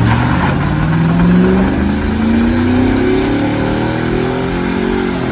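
A vehicle engine revving hard, its pitch climbing over the first two to three seconds, holding high, then starting to drop near the end.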